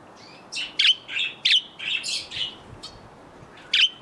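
Pet budgerigars chirping: a run of short, high, sharp calls, several close together in the first half and a pair more near the end.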